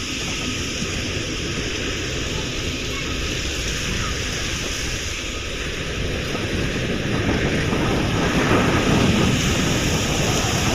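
Strong storm wind blowing and buffeting the microphone in a steady rushing noise, growing louder from about seven seconds in as a gust builds.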